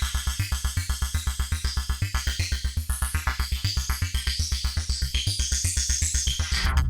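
Modbap Osiris wavetable oscillator in a Eurorack modular synth playing a fast sequenced bass line of short repeated notes, about eight a second, under a hissy high layer. Near the end it changes to one sustained buzzing bass tone.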